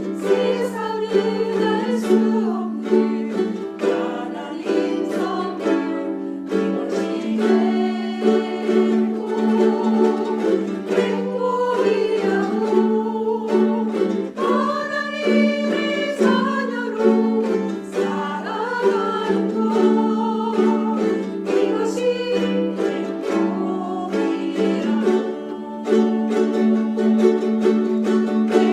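Ukuleles strumming and picking a song, with voices singing along at times.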